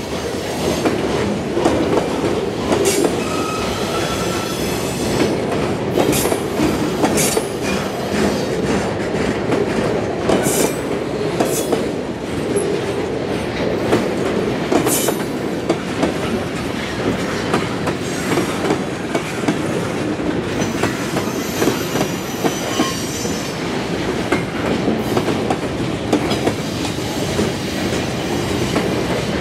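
Freight train rolling past, a steady rumble of wheels on rail with irregular clicks as the cars pass over rail joints.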